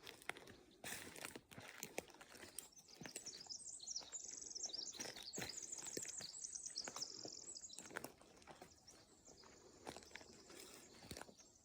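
A small songbird singing high, rapid trilled phrases for several seconds in the middle, over scattered crackling footsteps on the forest floor.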